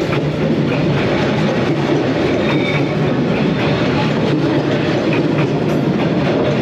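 A train passing close by on a street-running track: a loud, steady rumble and clatter of wheels on the rails.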